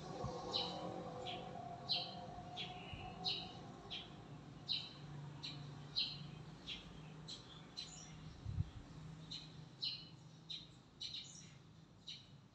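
A bird chirping over and over, short high chirps about one and a half a second, over a low steady hum. A single low thump about two-thirds of the way through.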